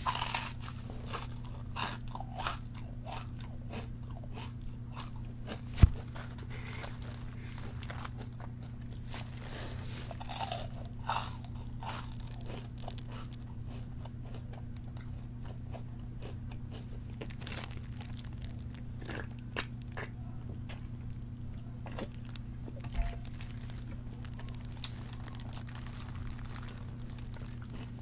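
Crispy fried chicken crunching in close-up bites and chewing, a run of crackly crunches that thins out after the first half. A steady low hum runs underneath, and a single loud thump comes about six seconds in.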